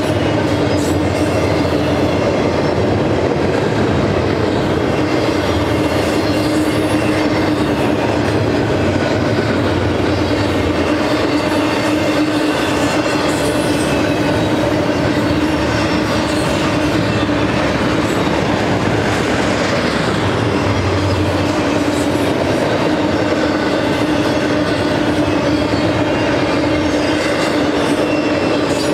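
Double-stack container cars of a freight train rolling past, with steel wheels running on the rails in a continuous steady rumble. A steady tone runs through the rolling noise.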